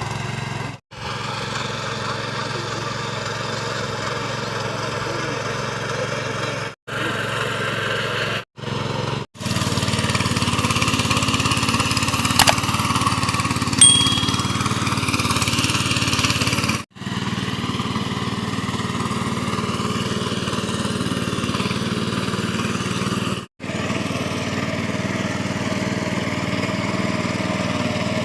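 Mini tractor engine running steadily under load while ploughing a field; the sound cuts out for a moment several times. A sharp click and a short high beep come about halfway through.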